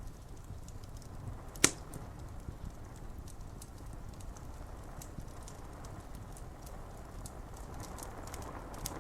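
Wood fire crackling with scattered small snaps and one loud, sharp pop about one and a half seconds in, over a steady low rush of rain.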